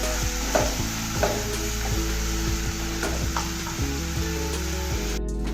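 Sliced onions and cumin seeds sizzling in hot oil in a pan while a spatula stirs them, scraping against the pan every second or so.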